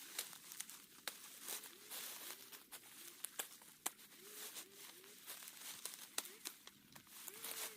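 Dry corn leaves and husks rustling and crackling as ears of corn are broken off the stalks by hand, in many quick sharp crackles. A faint short low call repeats several times underneath.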